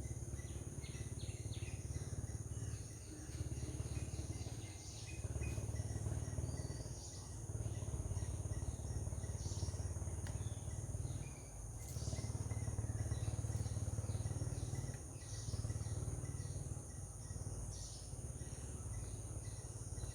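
Outdoor ambience: a steady high-pitched insect drone, with many short, quick bird chirps scattered through it, over a low rumble that swells and dips every few seconds.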